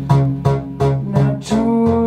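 Live music: a repeating pattern of sharply struck, pitched notes about three a second, then a single long held note from about one and a half seconds in.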